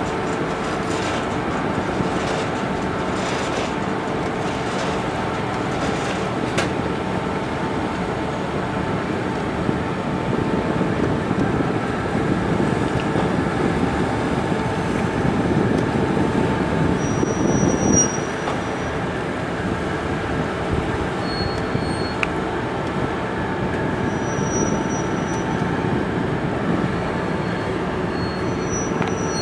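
Boat engine running steadily with a droning tone. It grows louder from about a third of the way in and drops back suddenly just past halfway.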